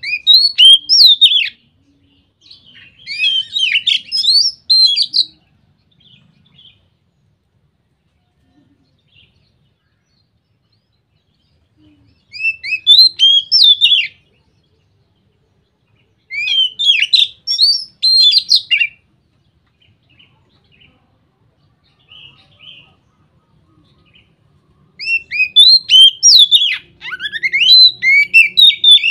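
Oriental magpie-robin (kacer) singing its full, loud song: five bouts of quick, varied whistled phrases, separated by pauses of a few seconds.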